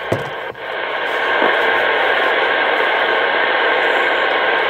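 CB radio speaker hissing with steady static, stepping up in level about half a second in.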